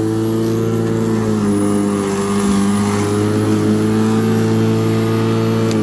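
Black & Decker 1800 W electric rotary lawnmower running steadily with a constant hum, its pitch dipping slightly about a second and a half in.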